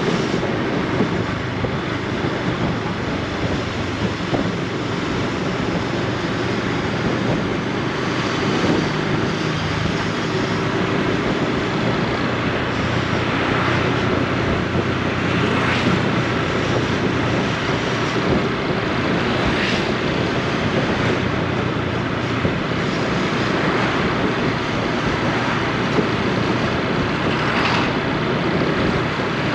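Honda Super Cub C125's single-cylinder four-stroke engine and exhaust running steadily while riding, with wind noise on the camera microphone.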